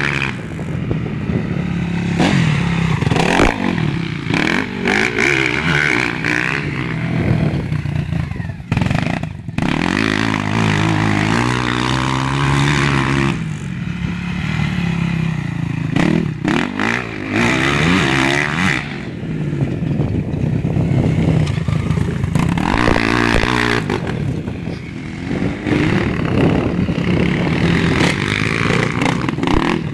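Motocross dirt bike engine revving up and down as the bike is ridden through tight corners, its pitch rising on the throttle and falling off into each turn, over and over.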